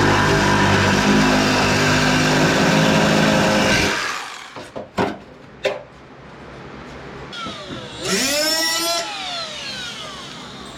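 A power tool runs steadily on sheet metal, then stops about four seconds in. Two sharp clicks follow, and near the end comes a sound that glides up and down in pitch.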